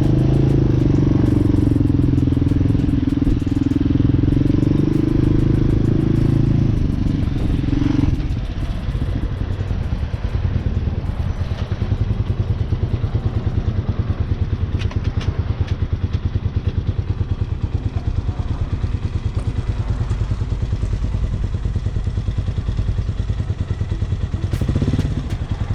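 Hawk 250 dual-sport motorcycle's single-cylinder engine running at raised revs, then dropping to a steady, pulsing idle about eight seconds in.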